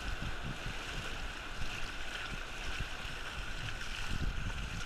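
Wind buffeting the microphone, an uneven low rumble, over a steady wash of waves and water.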